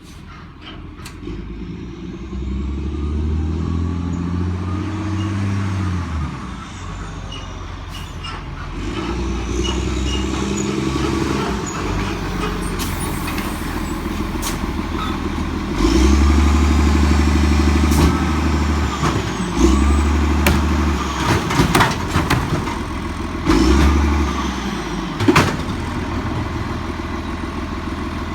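Lodal garbage truck working at the curb: its diesel engine revs up and drops back about four times as the hydraulics cycle. Metal clanks and bangs from the lift and bins come in between the revs.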